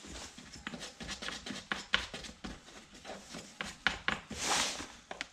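Small clicks and handling knocks as the nut on top of a Makita EK7650H concrete saw's air filter cover is loosened, with a short scraping rub about four and a half seconds in.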